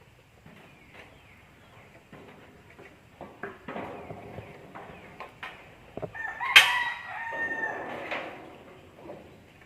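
A rooster crowing once, one long call starting a little past six seconds in. Scattered light knocks come before it.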